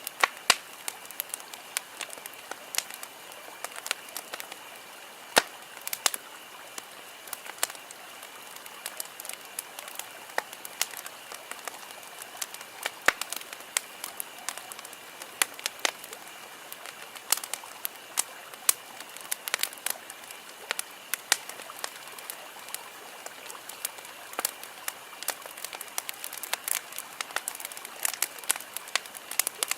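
Wood campfire crackling, with irregular sharp pops and snaps at uneven intervals, a few much louder than the rest, over a soft steady hiss. A faint steady high-pitched tone runs underneath.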